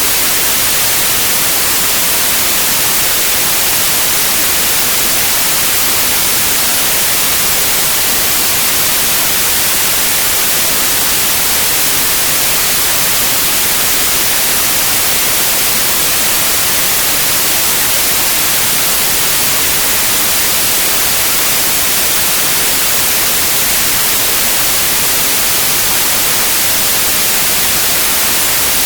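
Synthetic white noise: a steady, loud, even hiss across all frequencies, brightest in the treble, with no change or events.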